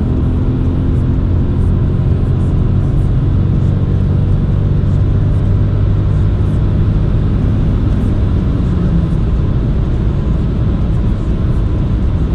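Renault Clio's 1.0-litre three-cylinder turbo petrol engine running under full-throttle acceleration, a steady low engine drone with road noise.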